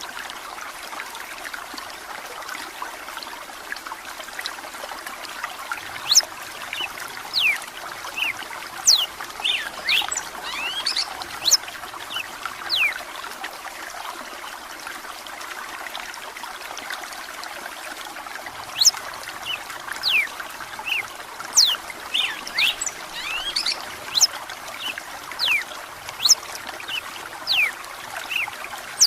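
A red-cowled cardinal sings in runs of quick, sharp whistled notes over a steady trickle of running water. The song comes in two stretches, with a lull of a few seconds near the middle.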